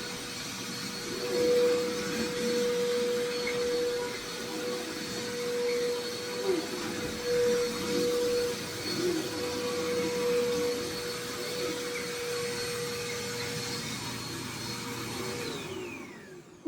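Vacuum cleaner running, a steady whine over the rush of its air, its level swelling and dipping as it is worked over the floor. Near the end it is switched off and the motor winds down with a falling whine.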